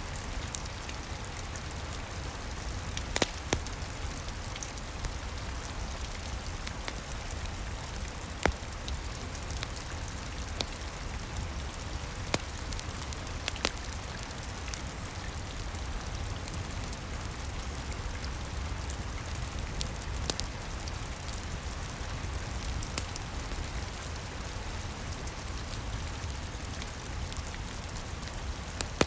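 Steady rain falling, with the sharp pops and crackles of a wood fire in a fireplace standing out every few seconds.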